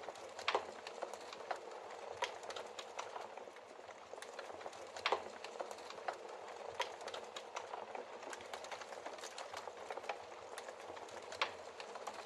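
Wood fire of burning logs crackling: a steady hiss and flutter of flame with irregular sharp pops and snaps, a few louder pops standing out.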